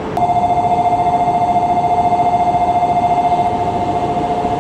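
Electronic departure bell on a Shinkansen platform: a steady, fluttering buzz-like tone that starts abruptly just after the beginning and keeps sounding, over background train noise.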